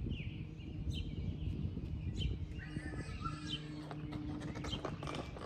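Songbirds chirping and calling, over a low steady hum, with a few faint clicks about a second apart.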